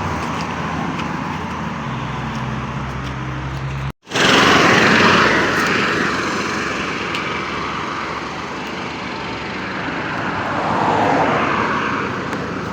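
Road traffic going past close by: a steady rumble, then a loud vehicle swelling past after a brief cut about four seconds in and fading, and another passing around eleven seconds in.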